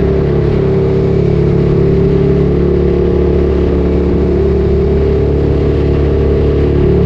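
Ducati Streetfighter 848's 849 cc L-twin engine running through a Termignoni exhaust at steady revs while being ridden. The pitch holds nearly level throughout.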